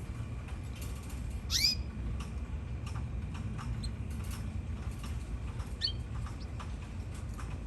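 Canaries in a cage: one louder rising call about a second and a half in and a short chirp near six seconds. Scattered small clicks run over a steady low hum.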